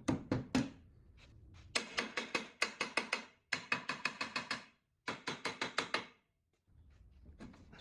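Hand tool working the rusty compressor head's metal in rapid short strokes, about five or six a second, in four bursts with brief pauses between them.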